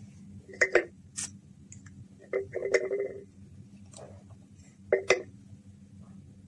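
A handful of sharp clicks and knocks, some with a short ringing tail, over a steady low hum.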